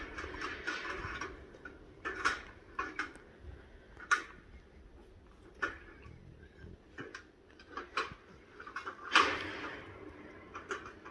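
Branches and twigs cracking and snapping as tigers break and chew them, in irregular sharp cracks with a longer crunching rustle about nine seconds in.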